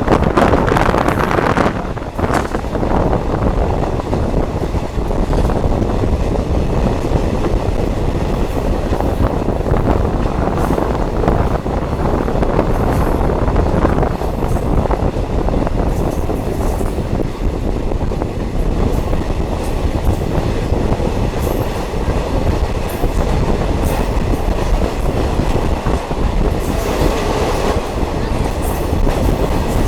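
Diesel multiple unit train running along the track, heard from on board: a steady rumble of wheels on rails with scattered clatter.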